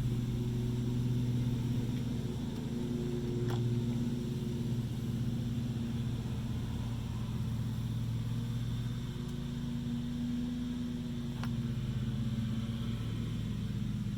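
A steady low mechanical hum, with two faint clicks.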